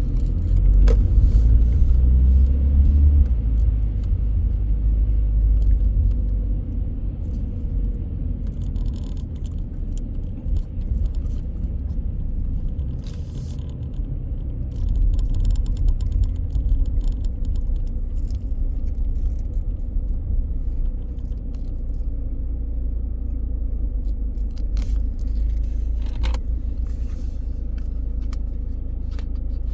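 Car driving through city streets: a steady low rumble of engine and tyres on the road, swelling in the first few seconds and again about halfway, with a few light clicks and rattles.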